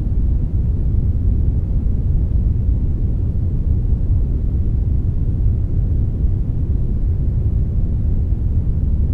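Synthetic brownish noise, a blend of brown and white noise: a steady, even rumbling hiss, deep and heavy in the low end, with no change or events.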